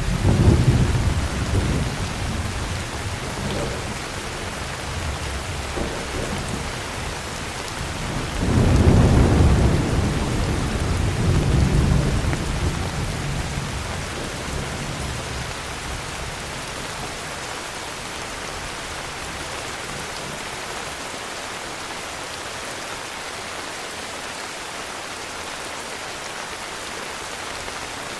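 Heavy steady rain with thunder. A crack of thunder sets in suddenly at the start and rumbles away. A second, longer rumble swells about eight seconds in and fades out over several seconds, leaving only the rain.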